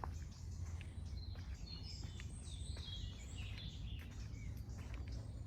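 Small birds chirping in short high twitters over a steady low rumble, with scattered faint clicks.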